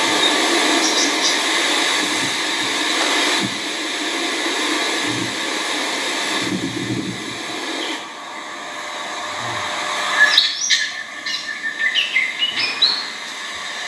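Small finches chirping: a run of short, high calls in quick succession starting about ten seconds in, over a steady background hiss that fills the first part.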